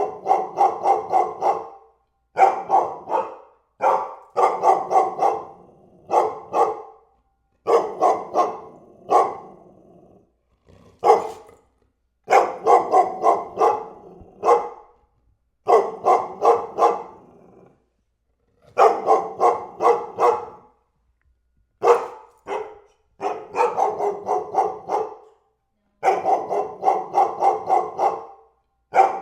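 A dog barking repeatedly in rapid bouts of several barks each, with short pauses between bouts.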